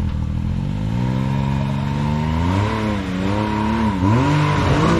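Off-road 4x4's engine running steadily, then revved up and down in repeated throttle blips from about halfway through.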